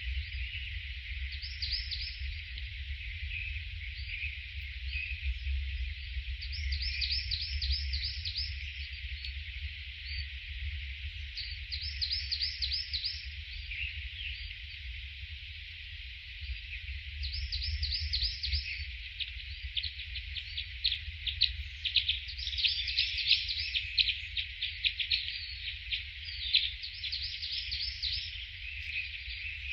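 Birds chirping: runs of quick, high, falling chirp notes in short series, coming thicker and louder in the last third, over a steady high chatter. A low rumble underneath.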